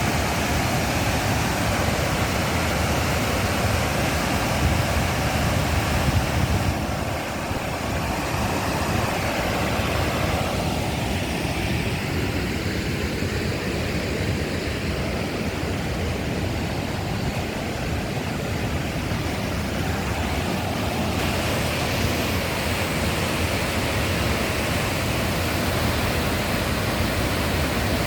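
Heavy rain with running floodwater: a steady, dense hiss. The higher part of the hiss thins about a quarter of the way in and comes back about three quarters of the way through.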